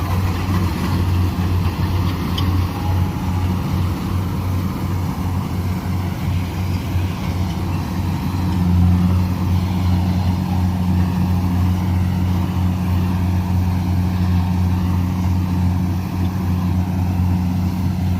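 Heavy diesel farm-machine engine running at a steady speed, a constant low drone that gets a little louder about halfway through.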